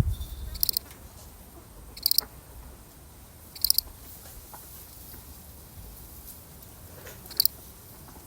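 A single cricket chirping four times at uneven intervals, each chirp a short, quickly pulsed trill. A low rumble dies away in the first second.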